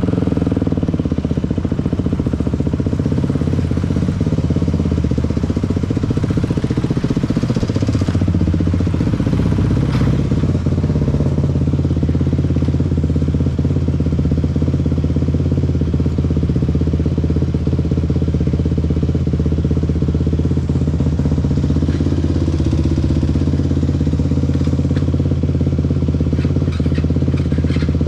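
Dirt bike engine running steadily, its pitch shifting a little about ten seconds in.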